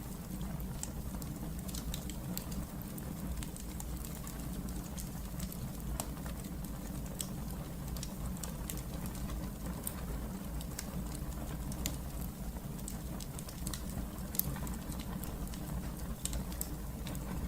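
Wood fire burning in a fireplace, a steady low rumble of the flames with frequent irregular sharp crackles and pops.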